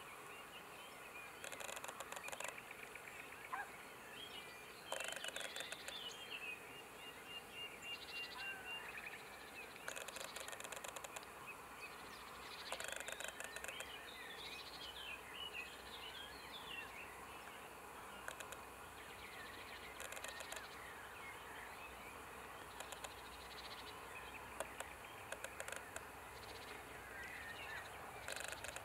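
Faint outdoor background of small birds chirping and twittering, with several bursts of rapid dry clicking about a second long each. One steady high trill lasts a couple of seconds about a quarter of the way in.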